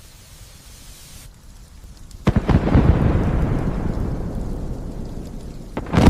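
Thunder over light steady rain: a sudden crack about two seconds in becomes a heavy low rumble that slowly fades, and a second loud crack comes near the end.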